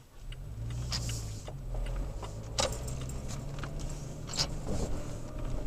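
Toyota Tacoma's engine running low and steady as the truck moves along a dirt trail, heard from inside the cab, with scattered clinks and rattles of loose items bouncing about.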